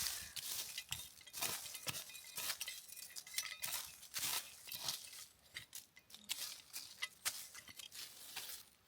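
Irregular light clinks and knocks of small hard objects being handled, several a second.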